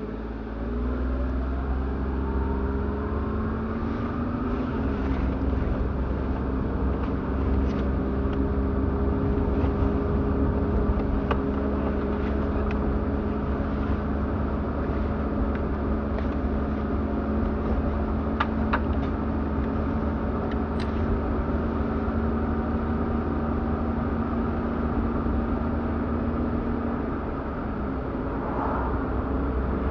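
A car pulling away and driving on. Its engine note rises over the first few seconds, then settles into a steady hum over a low road rumble, with a slight drop near the end.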